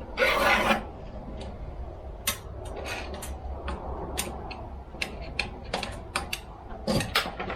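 A short blast of air hissing from a blower gun about a second in, then scattered light clicks and taps of metal parts being handled.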